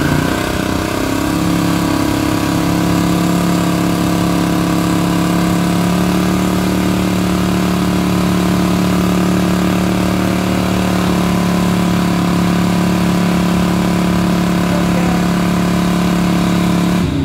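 1968 AMC AMX's engine held at high, steady revs through a burnout, its spinning rear tyres adding a loud hiss. The engine note holds one pitch and stops suddenly at the end.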